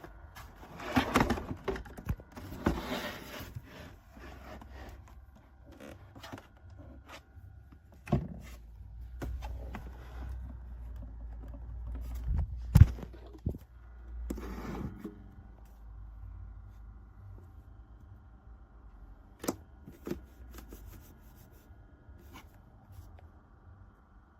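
Handling noises: scattered knocks, scrapes and clicks of objects being moved and set down, with one sharp loud knock about halfway through. A faint steady hum runs underneath.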